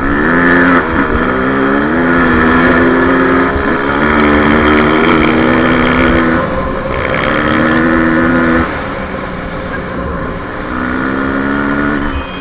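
Off-road motorcycle engine heard from on board, held at a steady throttle with short dips between stretches. It eases off for about two seconds past the middle and picks up again near the end.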